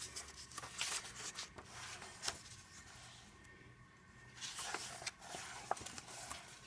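Faint rustling and soft taps of the paper pages of a glue-bound coloring book being handled and turned, in scattered brief bursts.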